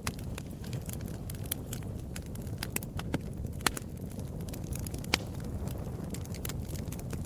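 Wood fire in a fireplace crackling: a low steady rumble of burning with irregular sharp pops and snaps, two of them louder near the middle.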